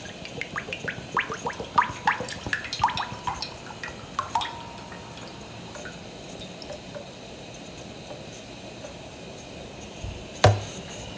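Cooking oil glugging out of a bottle as it is poured into a pot: quick gurgles for about four seconds that stop as the bottle runs empty. A single sharp knock near the end.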